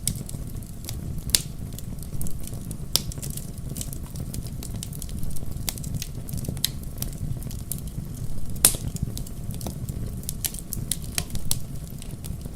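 Wood fire crackling in a fireplace: irregular sharp pops and snaps over a low, steady rumble of the flames, with the loudest pop about nine seconds in.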